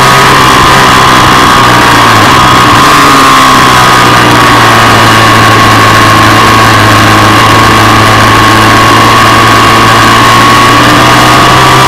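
Ducati 748's 90-degree V-twin engine running loud at high revs under way, heard close from an onboard camera. Its pitch holds fairly steady, sagging a little midway and climbing again near the end.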